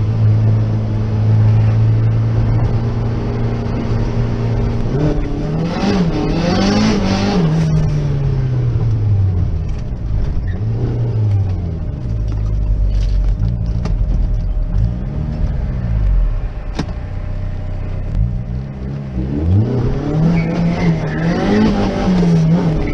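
Turbocharged Rover 1.8 K-series four-cylinder engine in an MG TF, running steadily at first. From about five seconds in, the revs rise and fall several times.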